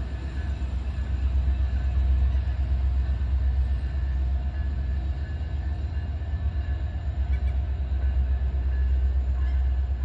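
EMD diesel-electric locomotive running with a steady low engine rumble, with faint steady tones above it.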